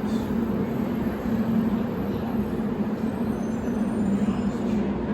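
Steady mechanical drone with a constant low hum on an airport tram platform, the background of the people-mover station between announcements.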